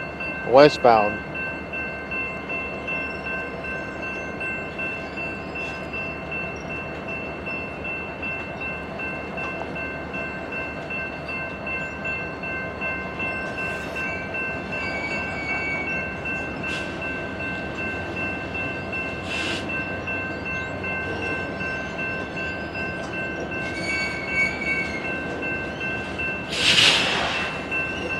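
Loaded BNSF coal train starting to roll slowly: a steady rumble of the moving cars with a few short clanks, the loudest near the end.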